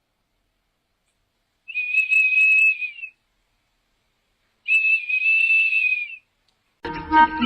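Two long, steady high-pitched whistle tones, each held for about a second and a half with a gap of about a second and a half between them. Near the end a fuller sound with several held tones begins.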